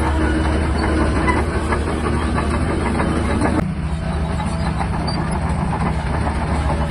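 Shantui DH17-C3 crawler bulldozer working, its diesel engine running steadily under a clattering of steel tracks. About halfway through the clatter and higher noise drop away sharply while the engine's low hum carries on.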